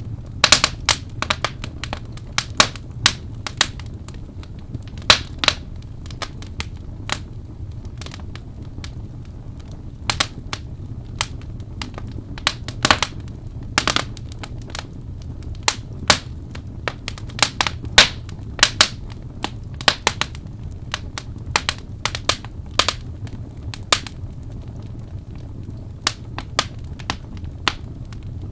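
Wood fire burning in a fireplace: irregular sharp crackles and pops from the burning logs, some much louder than others, over a steady low rumble of the flames.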